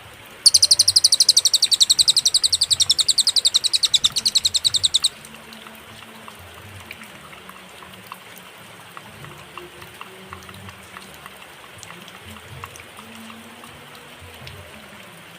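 Cililin song: a loud, rapid, high-pitched trill of evenly spaced notes lasting about four and a half seconds, stopping abruptly. Then only a faint background hiss with soft ticks remains.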